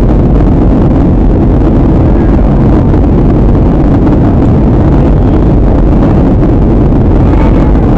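Jet airliner cabin noise in flight: a loud, steady low rumble and rush of engine and air noise with no change.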